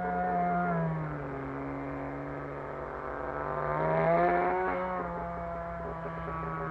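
RCGF 20cc single-cylinder two-stroke petrol engine of an RC model plane running. Its note drops about a second in, then rises and is loudest around four seconds in, then settles lower again.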